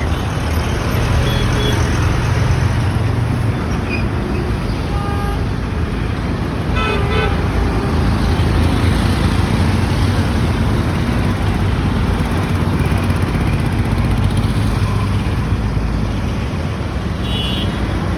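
Busy street traffic: steady engine and road noise with short horn toots, several in the first seven seconds and one more near the end.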